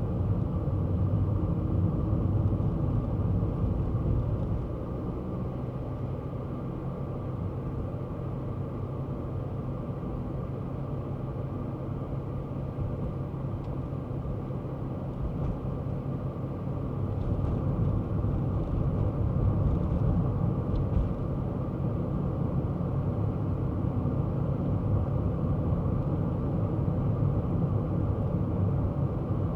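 Kei car driving: steady engine hum and road rumble. It is louder for the first few seconds, eases off, then rises again a little past the halfway point as the car gets back on the power.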